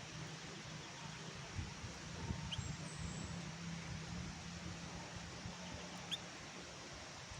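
A kecial kuning (white-eye, pleci) giving a few brief, high chirps, one about two and a half seconds in and one about six seconds in, over steady hiss and a low hum. A few soft knocks come early on.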